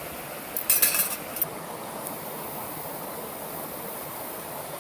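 A few light metallic clinks of camp cookware about a second in, over a steady soft hiss.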